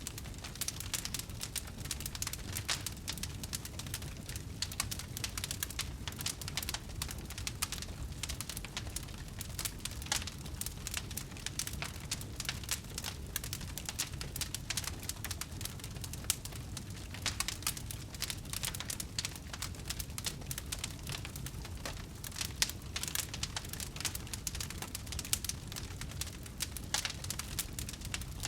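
Wood fire burning, with constant small crackles and pops over a low steady rumble of the flames.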